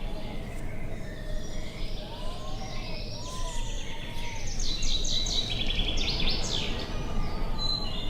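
Several wild birds calling and singing, with a burst of rapid trilled notes about five to six seconds in and a few slow rising-and-falling whistles, over a steady low rumble of wind.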